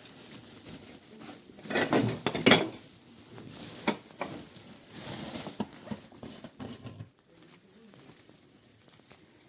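Clatter and knocks of household objects being handled or moved. The loudest cluster comes about two seconds in, a few sharper clicks follow, and it fades to soft rustling.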